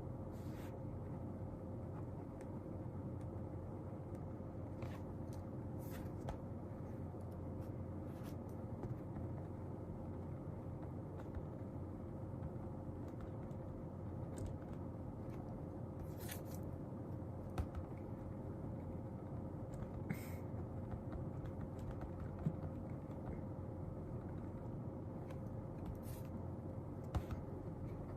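Steady low room hum with a faint constant tone in it, broken by a dozen or so small scattered clicks and taps of desk work, such as a pen and paper being handled.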